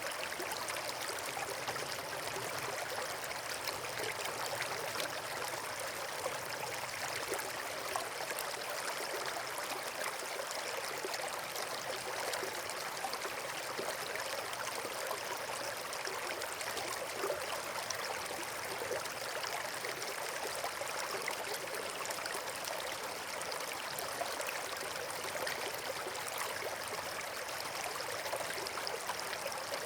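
Steady rush of flowing water, like a stream or small waterfall, with no pauses and a few faint ticks.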